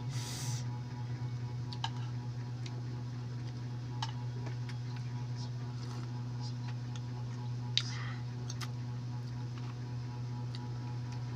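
Balut eating: scattered small clicks and taps, the sharpest about eight seconds in, with a short hissy slurp at the start and another near eight seconds, over a steady low hum.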